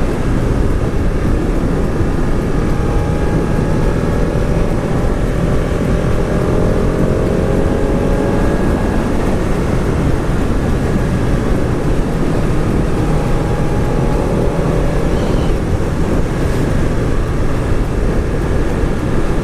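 Motorcycle engine running at a steady, gentle pace with wind rush on the microphone, its engine note drifting slowly up and down in pitch.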